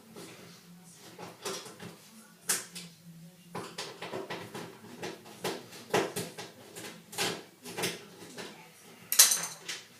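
Screwdriver undoing the two screws of a washing machine's door catch: irregular metal clicks and scrapes, with a louder clatter near the end.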